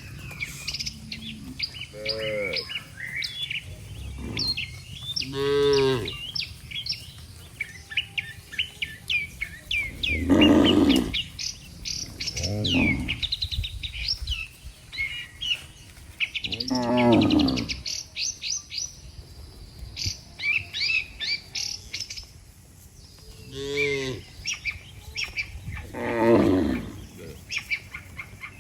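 Cattle mooing, about seven separate calls spread through, over steady chirping of small birds.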